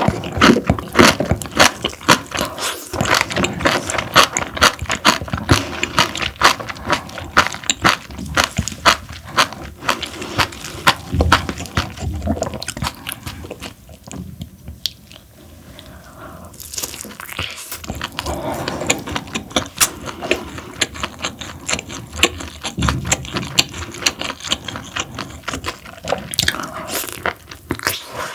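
Close-miked chewing of parboiled webfoot octopus, a dense run of quick mouth clicks that eases off for a few seconds about halfway through.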